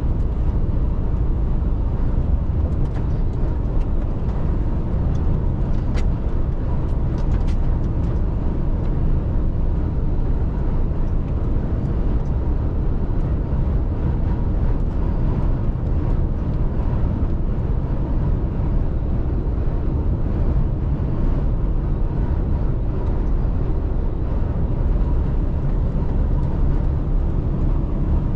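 Mercedes-Benz Actros truck driving at a steady pace: a constant low rumble of engine and road noise, with a few faint ticks a few seconds in.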